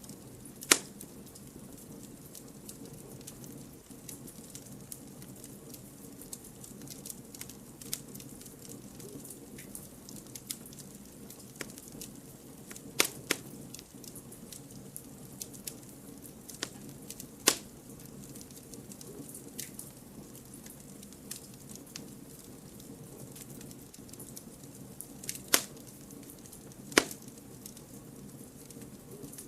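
Campfire of burning firewood crackling, a steady low hiss of flames under frequent small crackles and several loud, sharp single pops.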